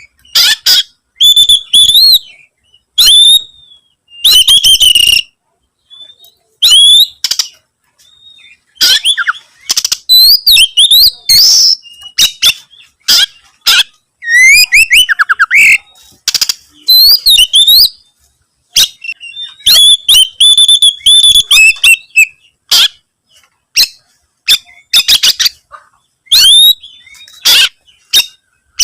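Oriental magpie-robin (kacer) singing loudly and continuously in short, varied phrases of whistles, chirps and harsh clicking notes, with brief pauses between phrases.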